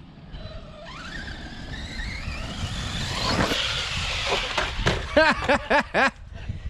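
Electric RC monster truck accelerating: its motor's whine rises steeply in pitch over about two and a half seconds, over a low rumble. A person's voice in short repeated bursts near the end.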